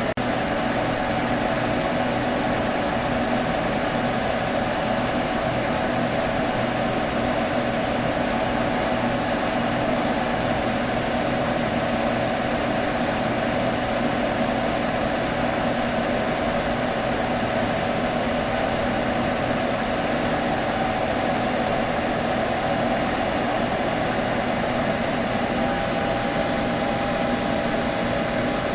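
Computer humming steadily, an even fan whir with a low hum under it; a thin steady tone joins near the end.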